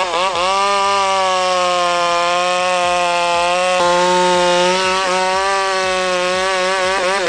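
Ported and polished chainsaw with a 28-inch bar cutting through valley oak at full throttle with the whole bar buried. The engine dips briefly in pitch just after the start, then holds a steady pitch under load without bogging down.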